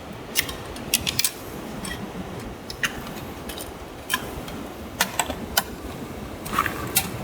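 Irregular sharp clicks and ticks, about a dozen, over a steady low hiss.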